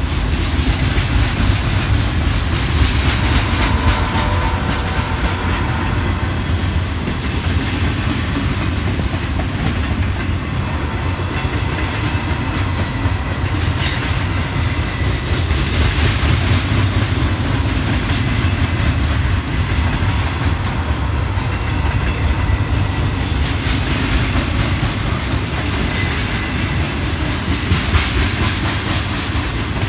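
A train rolling past at close range: a loud, steady rumble of steel wheels on rail, broken by sharp wheel clicks over the track.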